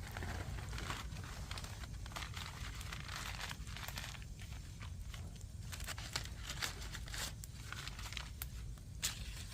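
Wood fire burning: steady crackling and hissing with irregular sharp pops of burning logs, over a low rumble.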